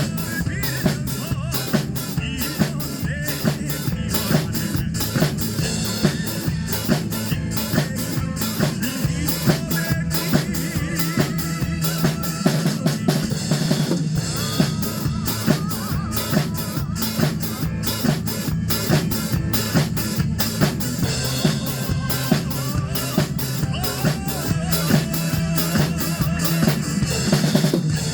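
Acoustic drum kit played along to a recorded trot song, kick, snare and rimshots keeping a fast, steady beat over the song's melody.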